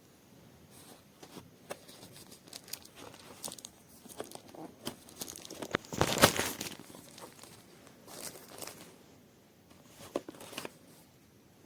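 Handling noises at close range: scattered clicks and crinkling, with a louder rustling burst about six seconds in.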